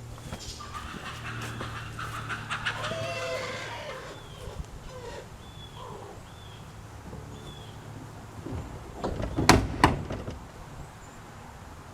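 Two sharp knocks close together, the loudest sounds, as the Ford Explorer's loosened body section is worked at by hand. Before them come short, wavering, effortful vocal sounds and faint high chirps over a low steady hum.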